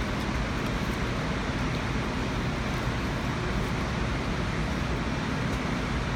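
Steady low hum with a hiss of background noise, unchanging throughout.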